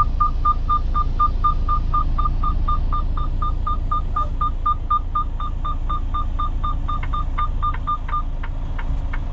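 Rapid electronic beeping, about five short beeps a second at one steady pitch, stopping about eight seconds in: an alert calling the driver to a dock door. Under it runs the steady low rumble of an idling truck engine.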